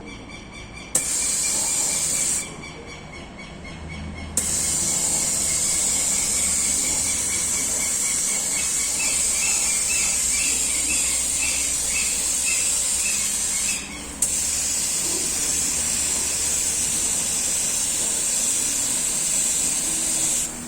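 Restored liquid ring vacuum pump running under test, with a loud steady hiss of air being drawn in and a faint high whine beneath it. The hiss cuts in and out abruptly: on about a second in, off briefly around two seconds, back on around four seconds, with a short break about two-thirds of the way through.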